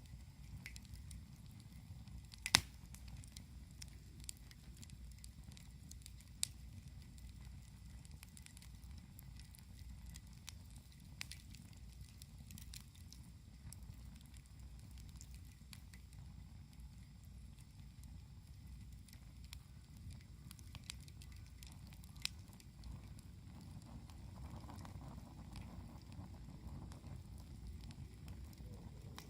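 Wood campfire crackling, with scattered sharp pops over a low steady rumble; one loud pop comes about two and a half seconds in.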